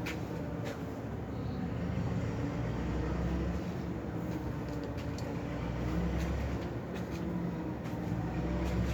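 A steady low mechanical rumble and hum that swells and eases slightly, with a few faint ticks.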